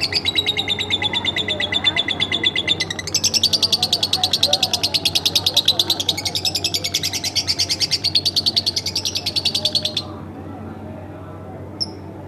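Lovebird chattering in one long, rapid run of sharp, high chirps, many a second, that breaks off suddenly about ten seconds in; a single short chirp follows near the end.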